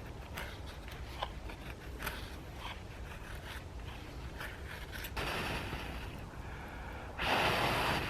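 Bushcraft knife blade scraping shavings off a piece of dry, brittle wood: a run of short scratchy strokes, then two longer, louder scrapes, the loudest near the end.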